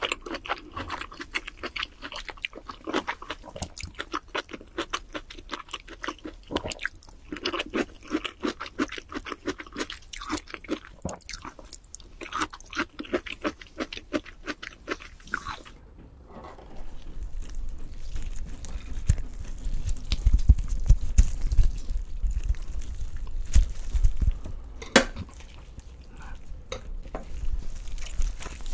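Close-miked eating sounds: a person chewing spoonfuls of kimchi stew, with many rapid mouth clicks. About halfway through it changes to a low rumble with scattered clicks and a few sharp cracks, as a rotisserie chicken is torn apart by gloved hands near the end.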